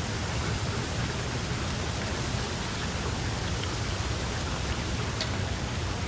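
Steady rain falling, an even hiss with a few distinct drops ticking through it.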